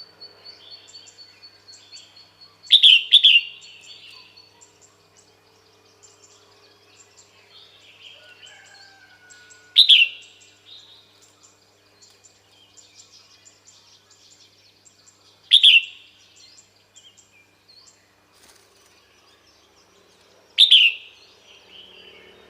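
Female red-whiskered bulbul calling, the kind of call used to lure a male: short, sharp, falling calls repeated about every five to six seconds, the first one doubled, with fainter chirps in between.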